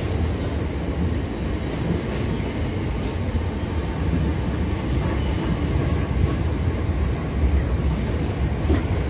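Train moving through the station, a steady low rumble with light, sharp clicks that start about halfway through.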